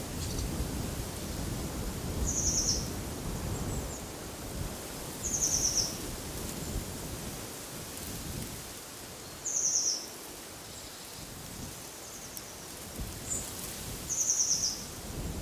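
A small songbird repeats a short, high, trilled phrase four times, every three to four seconds, over a steady wash of wind. A low rumble of wind is heavier in the first half and eases off about halfway through.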